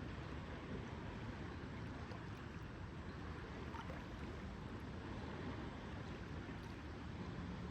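Lakeside ambience: a steady wash of lake water lapping with wind, even and unbroken.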